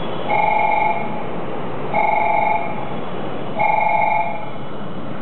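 Japanese station platform train-approach warning signal: an electronic ringing tone pulsing three times, about once every second and a half, as a train arrives.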